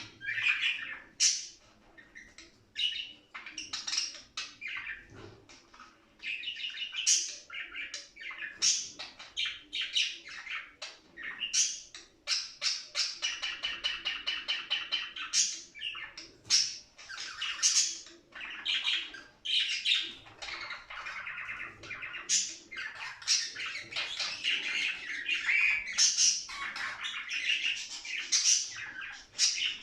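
Budgerigars warbling and chirping: a dense, unbroken run of short chirps and squawks, with a stretch of rapid chattering around the middle.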